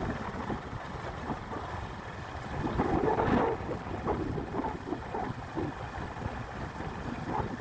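Wind buffeting the microphone over a low vehicle rumble while riding, with a louder gust about three seconds in.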